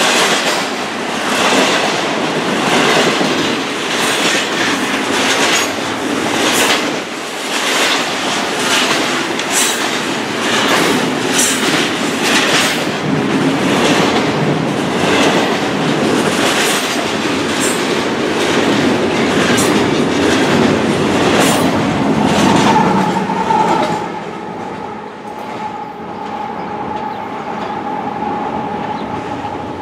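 A freight train's cars rolling past, the wheels clicking rapidly over the rail joints. About 24 seconds in the clatter drops away sharply, leaving a quieter rumble with a steady high tone.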